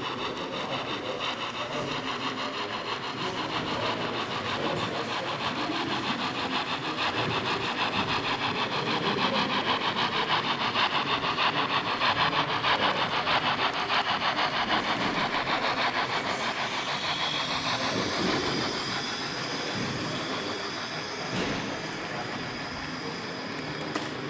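An H0 scale model train running along the layout with a fast, even rattle of its wheels and drive, growing louder toward the middle and then fading as it passes.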